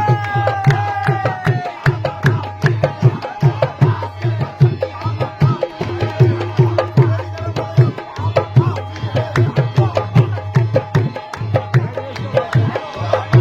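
Qawwali music without words: fast, dense hand-drumming on a dholak, with held melody notes above it. A single note slides down in the first couple of seconds.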